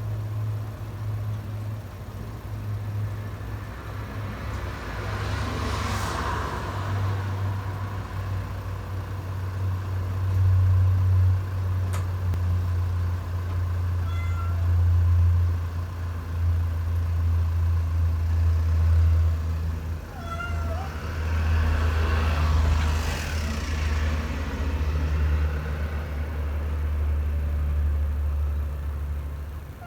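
A cat giving a few short meows in the second half, over a steady low hum, with two broad swells of noise rising and fading, one about six seconds in and one about twenty-three seconds in.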